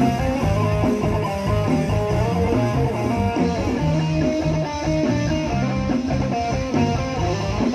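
Live band playing an instrumental break: an electric guitar melody over bass guitar and a steady beat.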